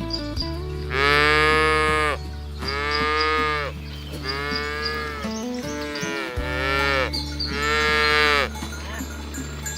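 Cattle mooing over and over: about six long moos, each rising then falling in pitch. The loudest come about a second in and near the end, over a steady low hum.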